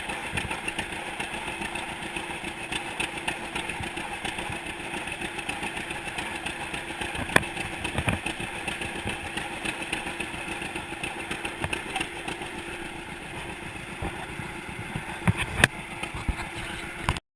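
1942 John Deere unstyled Model A's two-cylinder engine running steadily on its first start after being freed from stuck, with a few sharp knocks. The sound cuts off abruptly near the end.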